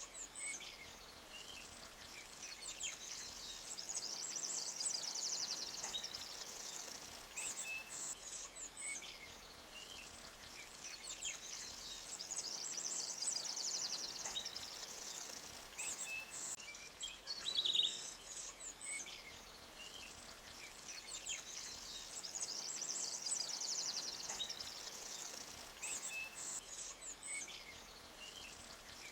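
Forest ambience: scattered bird chirps over the faint hiss of a stream, with high, fine trilling that swells and fades three times.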